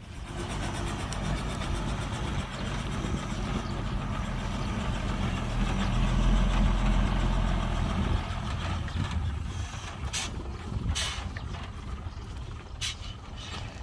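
Heavy dump truck's diesel engine running, growing louder to about midway and then easing off. Near the end come three or four short sharp hisses.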